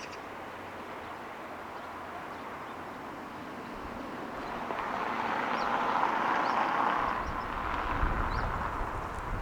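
City traffic noise from below: a steady hum that swells as a vehicle passes, loudest about six seconds in, then eases off. A low rumble comes in near the end.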